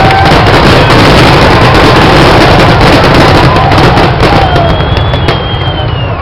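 Fireworks display: a dense, very loud run of crackles and bangs with a few long gliding whistles over it, thinning out and getting quieter near the end.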